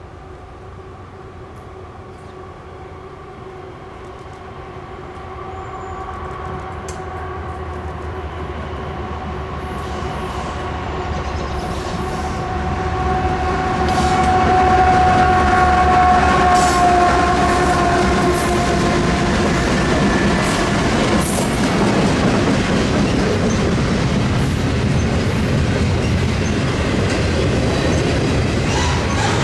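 CSX freight train with four diesel-electric locomotives approaching and passing close by, growing steadily louder. A steady tone from the locomotives drops slightly in pitch as they go by. Then come the continuous rumble and rail clicks of double-stack intermodal container cars rolling past.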